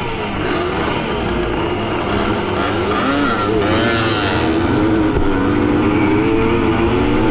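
Several vintage motocross bike engines running at once, their pitches rising and falling as they rev up and back off, with a cluster of quick rev swells about halfway through.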